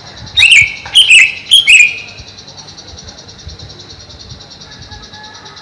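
Greater green leafbird giving four loud, sharp calls in quick succession in the first two seconds, each note dropping in pitch. Underneath, a steady high insect trill like a cricket's.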